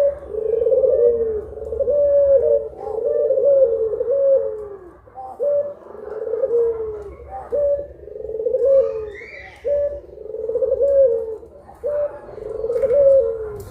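Puter pelung turtle doves cooing over and over, their coos overlapping in a steady run of roughly one a second, over a faint low hum.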